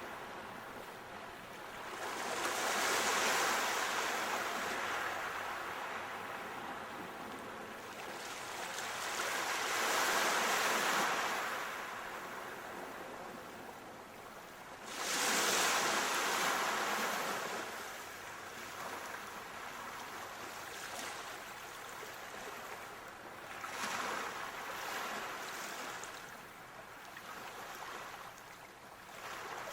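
Ocean waves breaking and washing on a shore, swelling and receding in slow surges every several seconds, the strongest about three, ten and fifteen seconds in.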